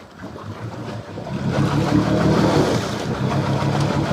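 Pickup truck engine revved up in four-wheel drive, its pitch rising and holding about a second and a half in, as the truck tries to pull out of deep pond water; it stays stuck.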